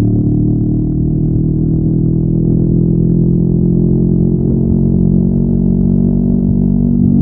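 Honda NX500's parallel-twin engine with stock exhaust, running under load at a steady pitch while riding.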